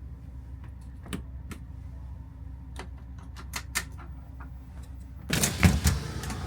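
Idling vehicle engine as a low steady hum, with scattered light irregular clicks and a louder rustling clatter about five seconds in.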